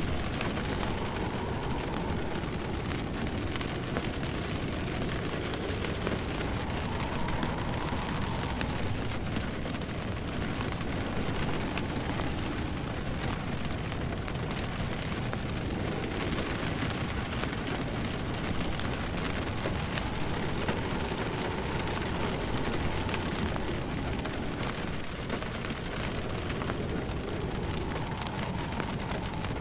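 Steady rain, with a wood fire crackling softly beneath it.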